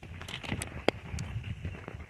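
Footsteps walking on a wet woodland trail, a dull thud about every half second, with scattered sharp ticks of rain falling around the microphone.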